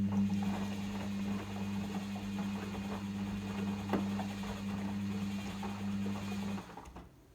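Logik L712WM23 washing machine humming steadily under a light crackle, then cutting off sharply about six and a half seconds in.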